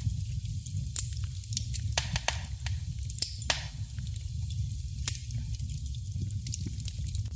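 Wood fire crackling: many sharp pops and snaps at irregular intervals over a low steady rumble, with a few brief hisses.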